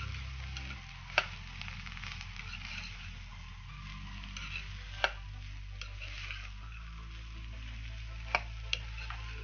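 Sprouted moth beans (matki) sizzling in hot oil as they are stirred and sautéed with a metal ladle, with four sharp clinks of the ladle against the pan: one about a second in, one about five seconds in, and two close together near the end.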